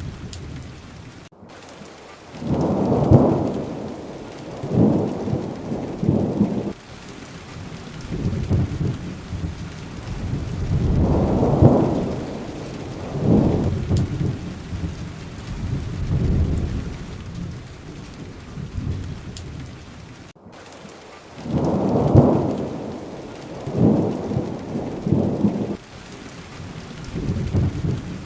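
Steady rain with rolling thunder: low rumbles of a few seconds each, one after another, over the hiss of the rain. The sound cuts out for an instant twice, about 19 seconds apart, and the same run of rumbles follows each time, as in a looped recording.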